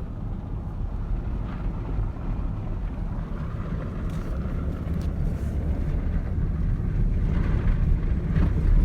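Vehicle driving on a road: a steady low rumble that grows slowly louder toward the end.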